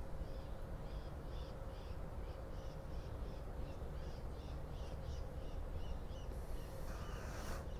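A bird calling over and over in short, high chirps, about three a second, above a steady low hum. Near the end a brief hiss of noise rises over it.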